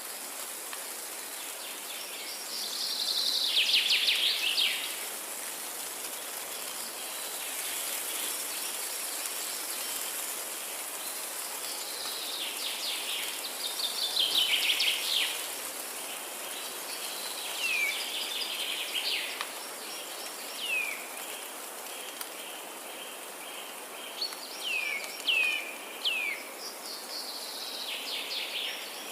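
Forest ambience: songbirds singing, with a trilled phrase of two to three seconds that falls in pitch, heard three or four times, and several short down-slurred calls, over a steady high hiss.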